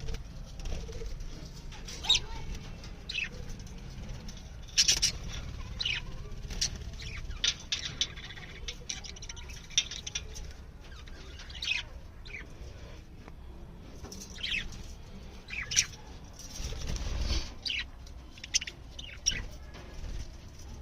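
A colony of budgerigars giving short, sharp, falling chirps every second or so, with wings flapping now and then.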